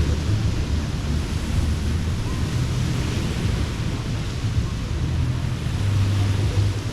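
Surf washing onto the beach in slow swells, with a steady low wind rumble on the microphone.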